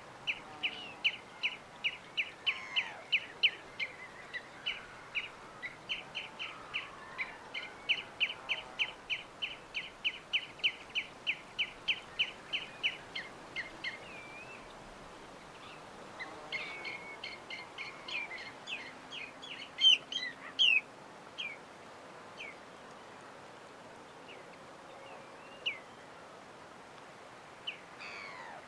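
A small bird chirping in a fast, even series of short, sharp notes, about three a second, for some fourteen seconds. After a brief pause comes a second, busier burst, then scattered single chirps over a faint steady background hiss.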